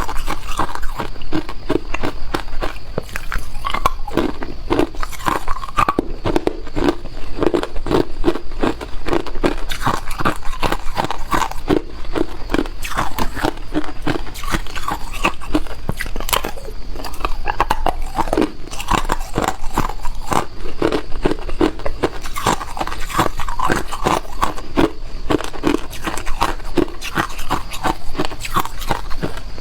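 A person biting and chewing ice, with a dense, continuous run of crunching and cracking.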